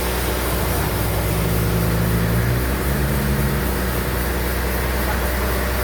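Sawmill bandsaw machinery running steadily, a continuous low hum with machine noise over it.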